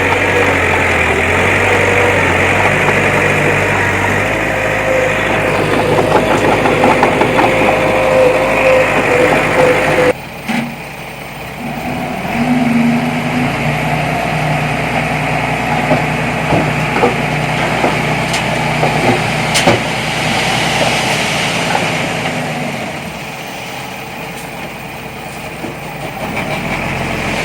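Diesel engines of heavy earthmoving machinery running. The engine sound changes abruptly about ten seconds in, and a few knocks are heard over it.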